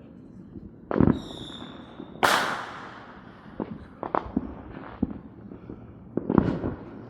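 Consumer fireworks going off: a bang, then a steady high whistle for about a second ending in a loud report that hisses away, followed by scattered smaller pops and a quick cluster of cracks near the end.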